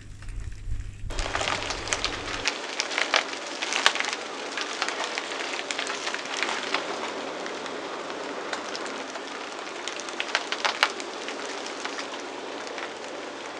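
A car tyre crushes something brittle: dense, steady crackling and crunching with frequent sharper snaps, starting suddenly about a second in.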